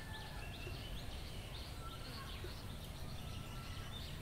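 Quiet outdoor ambience: small birds chirping, short high falling notes repeated about twice a second, over a faint low background rumble.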